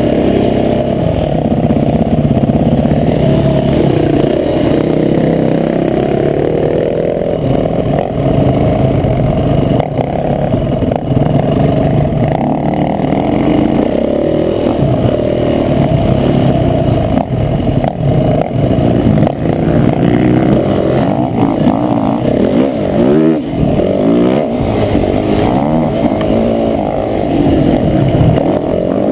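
Motocross dirt bike engine, heard on board, revving up and down over and over as the rider opens and closes the throttle through a lap of the track.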